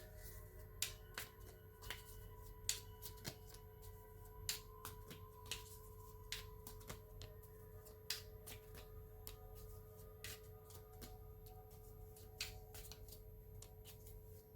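Tarot cards being shuffled and handled, giving irregular light clicks and taps, over a steady faint ringing tone in the background.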